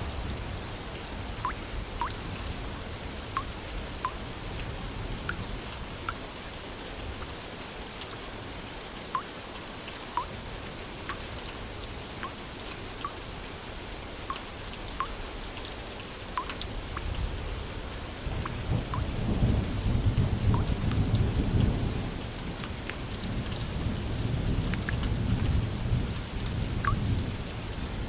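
Steady rain with scattered drops plinking. A low rumble of thunder builds a little past halfway and rumbles on again near the end.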